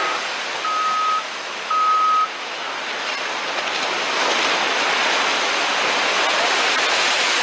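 Two electronic beeps about a second apart, then from about three seconds in a loud, steady rush of surging water as a ship's hull is launched into the sea.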